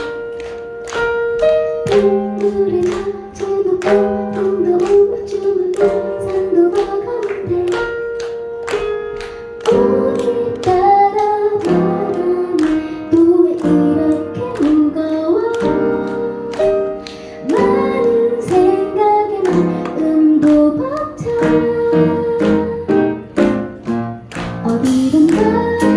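A woman singing a song live over instrumental accompaniment with a steady, even beat of notes.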